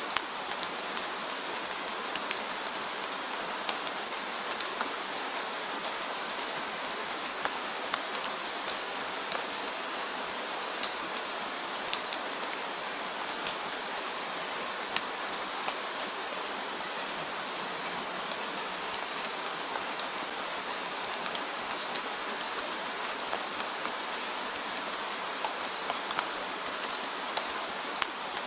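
Steady rain falling, an even hiss with many sharp individual drop hits scattered throughout.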